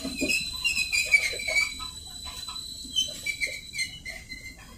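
Small birds chirping repeatedly, with short calls that fall in pitch, over a thin steady high-pitched whine.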